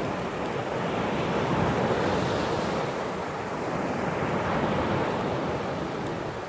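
Sea surf washing on the shore, a steady rushing noise that swells gently, with wind buffeting the microphone.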